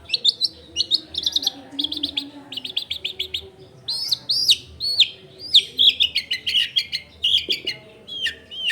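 Long-tailed shrike (cendet) singing a fast, varied song: quick chips, rapid trills and arched whistled notes one after another. The song is full of 'isian', phrases copied from other birds.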